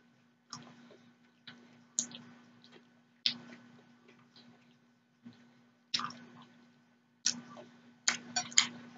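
Close-miked eating sounds: chewing and wet mouth smacks on a mouthful of shrimp noodles and vegetables, a sharp smack every second or so and several in quick succession near the end. A faint steady hum lies underneath.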